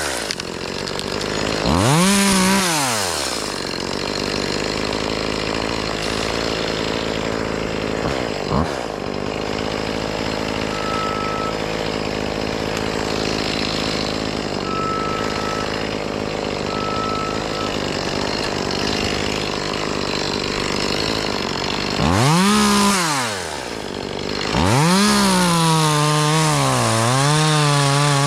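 Two-stroke chainsaw revved briefly, then left running at a lower steady speed for a long stretch. It is revved again and held at high speed near the end, where its pitch sags and recovers as it bogs down cutting into a limb.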